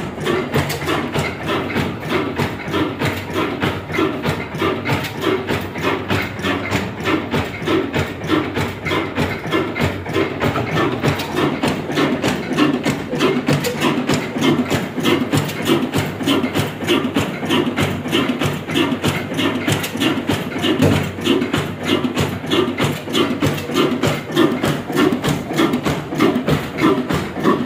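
Vintage Ruston Hornsby diesel engine running steadily, with an even, repeating knocking beat that holds the same pace throughout.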